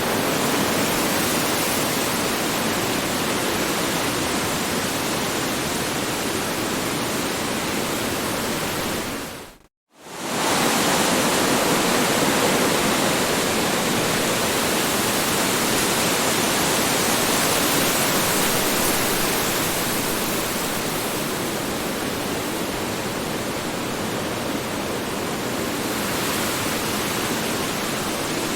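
Strong wind blowing, a continuous even rushing. About ten seconds in it fades out to silence for a moment and comes straight back.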